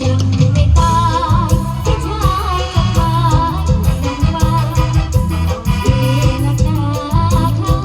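Live Thai mor lam band music: drum kit and bass keep a steady beat, and a high melody line wavers over it, falling away in the middle and coming back near the end.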